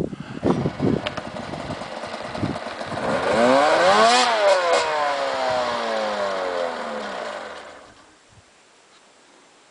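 Snowmobile engine revving: its pitch climbs for about a second to a peak, then sinks slowly as the engine winds down and fades away. A few knocks and crunches come before it.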